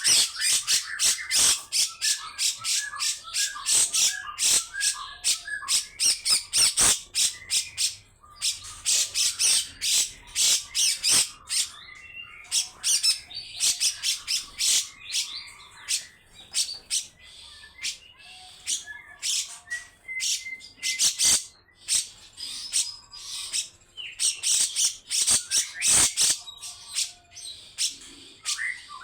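Grey-cheeked bulbul (cucak jenggot) giving long bouts of harsh, rasping chatter, rapid strokes run together, broken by short pauses and a few whistled notes.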